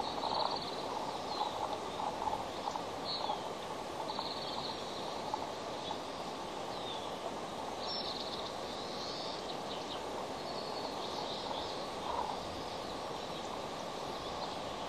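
Short, high bird chirps scattered throughout over a steady rushing background noise.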